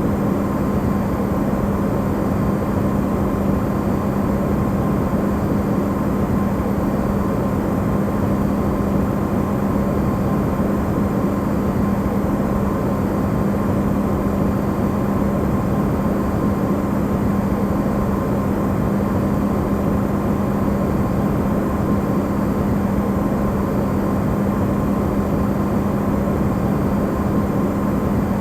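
Amplified recording of a running Electrolux refrigerator: a steady, unchanging hum with a low drone and a fainter higher tone over even noise.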